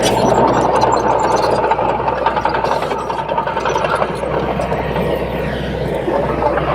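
Komatsu D21P bulldozer's diesel engine running steadily while the machine works.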